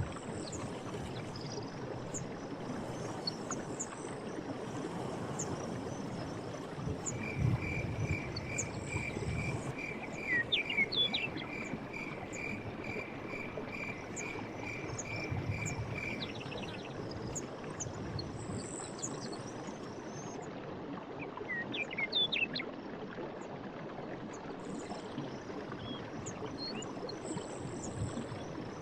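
Night forest ambience: a steady rushing hiss with faint insect ticking throughout. For about nine seconds in the middle, a creature calls in an even series of short notes, about two a second. Brief chirping calls come twice, once during that series and again later.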